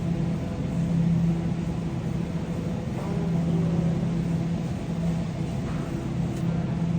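Shopping cart rolling across a store floor, a steady rumble and rattle picked up through the phone mounted on the cart.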